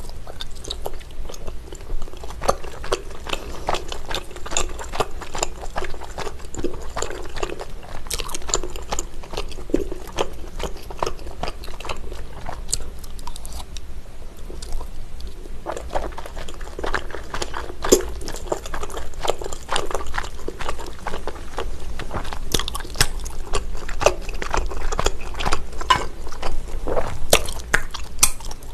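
Close-miked chewing of sticky, sauce-coated garaetteok rice cakes: repeated bites and wet, smacking mouth sounds in an irregular stream.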